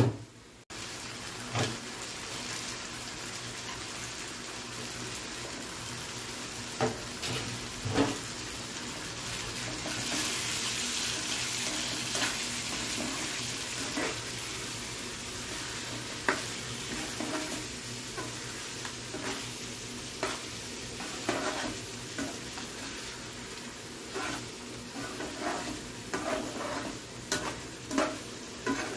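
Chicken masala gravy sizzling steadily in a frying pan as it cooks down toward a dry masala; the sizzle is loudest about a third of the way in. Through the second half, a wooden spatula stirs and scrapes the pan in frequent short knocks.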